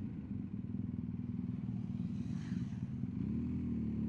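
BMW R1250GS Adventure's boxer-twin engine running steadily on the road, with a brief change in engine pitch about three seconds in.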